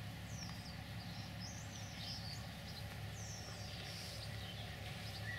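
Small birds chirping in short, high, falling calls, in three brief bunches, over a steady low hum.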